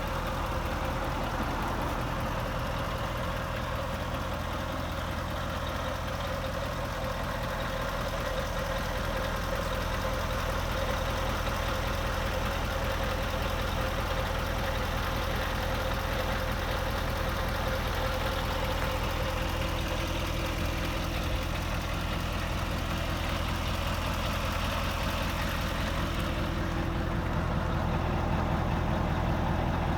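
Scania R520's 16-litre V8 diesel engine idling steadily, getting slightly louder near the end.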